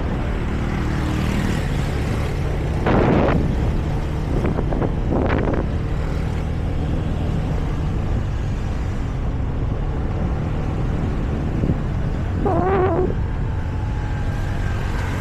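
Motorbike engine running steadily under way, with wind and road noise. A few short louder sounds break in about three and five seconds in, and a brief wavering, warbling sound comes near the end.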